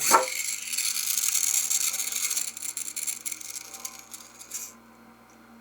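A harsh, rasping hiss from the battery-operated 1998 Hess RV toy set. It opens with a click, runs steadily for about four and a half seconds and cuts off suddenly.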